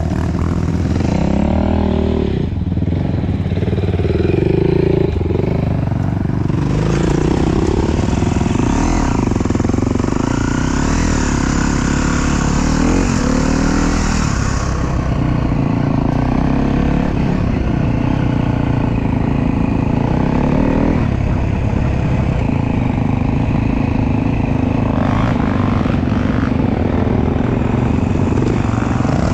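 Dirt bike engine revving up and down under changing throttle, picked up close by the bike-mounted action camera along with a hiss of wind.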